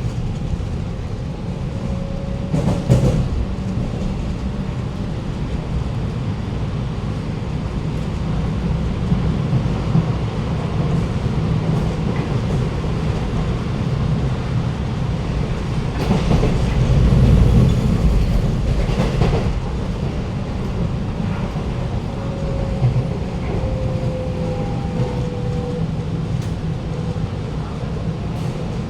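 Cabin noise of an Alstom Movia R151 metro train running: a steady low rumble with a few sharp wheel clicks over the track. Near the end a faint tone slides down in pitch.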